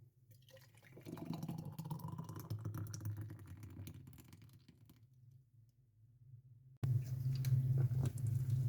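Liquid being poured into a glass, the pitch rising as it fills. Near the end a steady low hum starts abruptly.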